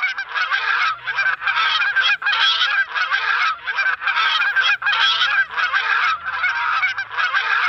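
Geese honking: a dense run of harsh calls repeated over and over, with brief breaks between bouts.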